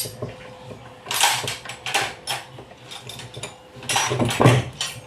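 Small socket wrench tightening the nuts on a water pump motor: bursts of quick metallic clicking and clinking, one run starting about a second in and another near the end.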